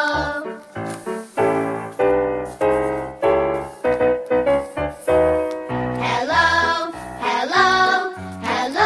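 Background pop music: keyboard notes that ring and fade, with a singing voice coming in about six seconds in.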